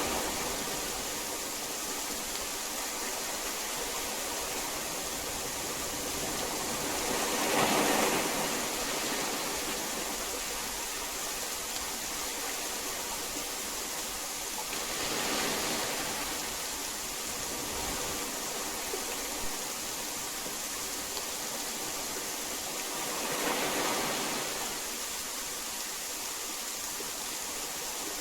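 Heavy rain falling as a steady hiss, swelling louder about every eight seconds, four times.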